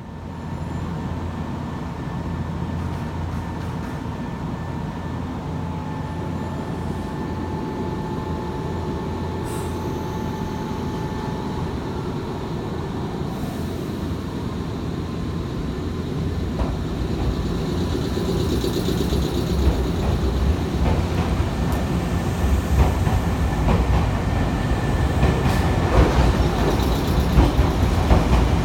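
Nankai electric train running on the tracks with a steady low rumble, growing louder in the second half as its wheels clack over the rail joints.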